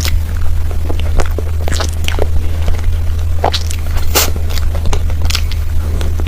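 Close-miked mouth sounds of eating creamy cake: chewing and lip smacks at irregular moments, over a steady low hum.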